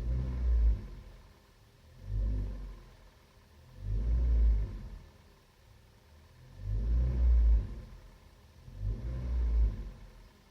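Repeated low, dull knocking thuds from a 2015 Kia Rio, each lasting about a second and coming every two seconds or so: the knock that has persisted despite attempts to cure it.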